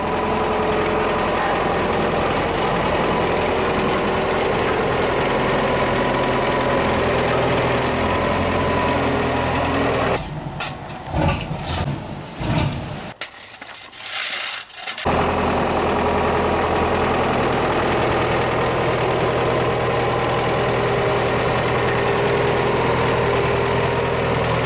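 Engine of road-repair machinery running steadily at a constant speed, briefly replaced by quieter, uneven sound with a few clicks in the middle before the same running returns.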